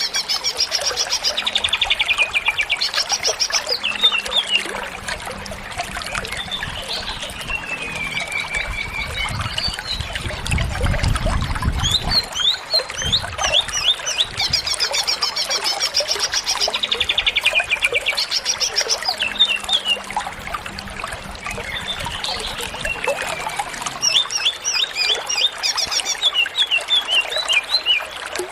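Greater green leafbird (cucak ijo) singing steadily in full voice, a long varied song of rapid trills, sweeping whistles and quick chirps packed with mimicked fills; the same phrases come back about every dozen seconds.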